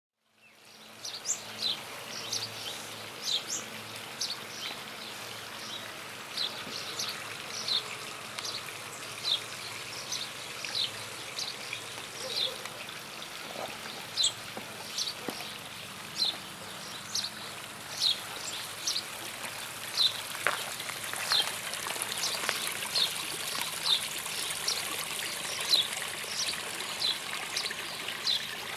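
A small bird calling with short, high chirps that fall in pitch, repeated about once or twice a second, over a steady trickle of running water.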